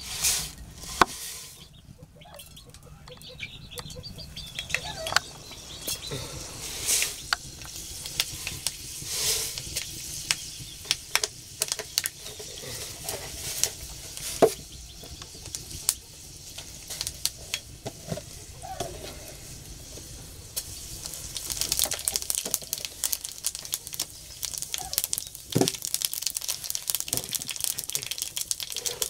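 Whole spice seeds frying in hot oil in an iron wok, a dense crackle of quick sharp pops over a sizzle that starts about two-thirds of the way through. Before that, scattered clicks and knocks.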